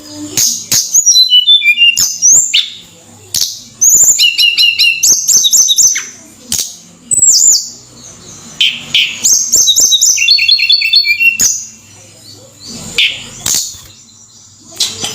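Tledekan gunung songbird singing: phrases of fast, high repeated notes and short descending runs, broken by pauses, with sharp clicks between them.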